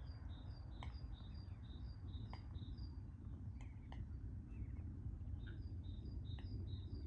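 A songbird singing a fast repeated two-note phrase, high notes alternating, in two runs of about two and a half seconds each. Sharp clicks about every second and a half, over a steady low rumble.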